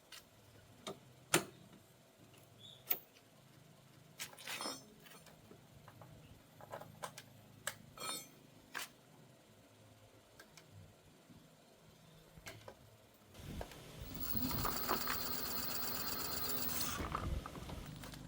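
Scattered light clicks and knocks of small metal parts being handled, then near the end a small motor runs loudly and steadily for about three seconds before it cuts off suddenly.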